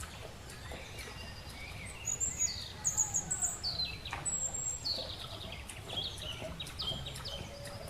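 Birds singing and chirping, with quick high calls and runs of falling notes, busiest and loudest from about two seconds in, over a steady low rumble.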